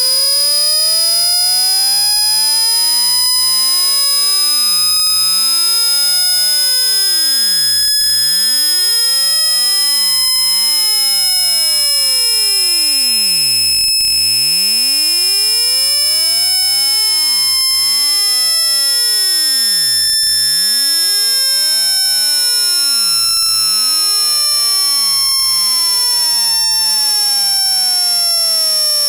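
Synthesized speaker-cleaning sine tone sweeping slowly up in pitch for about fourteen seconds, then back down, over a steady high-pitched whistle. It is a frequency sweep played to shake dust and water out of a phone's speaker grille.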